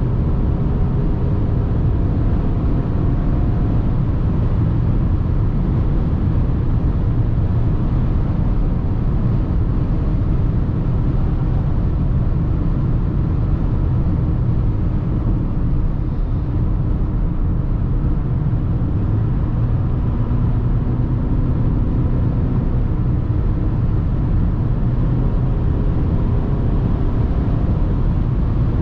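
Mercedes GLA 220d, four-cylinder diesel, driving at a steady speed: a constant low rumble of road and wind noise with a faint engine hum underneath, holding even throughout.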